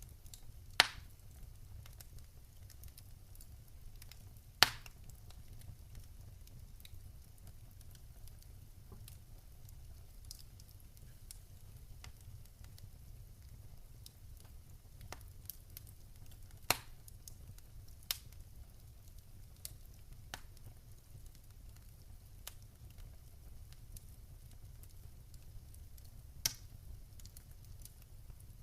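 Wood fire crackling: scattered sharp pops, two loud ones in the first five seconds and a few more later, over a steady low rumble.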